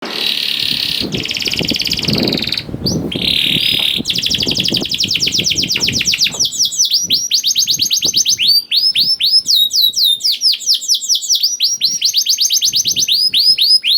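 Young canary singing in fast trills: first a dense buzzing trill, then from about six seconds in a rapid run of repeated downward-sweeping notes. A low rumble sits under the first few seconds.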